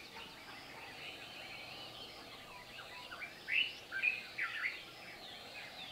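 Several birds calling in short, quick chirps and whistles that rise and fall in pitch. The calls are sparse at first and come thickest about three and a half to five seconds in.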